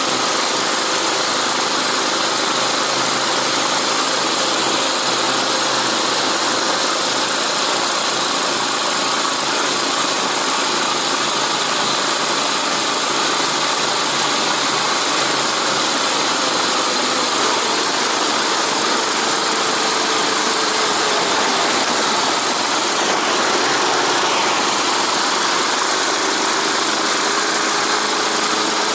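Motorised snow-tow (motodog) engine running steadily under way, with a constant noisy rush over it; its pitch climbs a little near the end.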